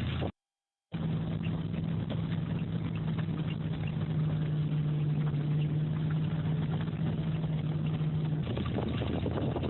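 An engine running steadily with a low, even hum. The sound drops out to silence for about half a second near the start.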